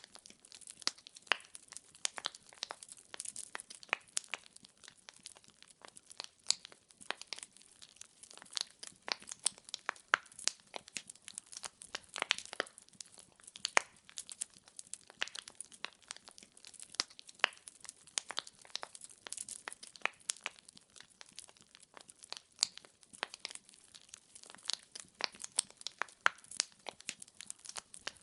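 Wood fire crackling: burning logs popping and snapping irregularly, several small cracks a second over a soft hiss.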